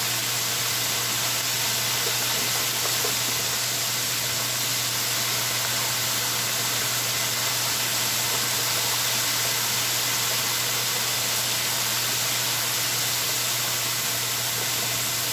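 Chicken breast frying in hot oil in a deep fryer: a steady, even sizzle, with a low steady hum underneath.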